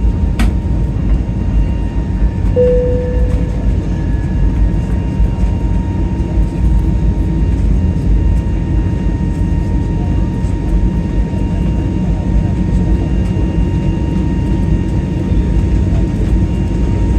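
Aircraft cabin noise during departure: a steady, loud rumble of engines and airflow with a thin steady whine over it. A short tone sounds briefly about two and a half seconds in.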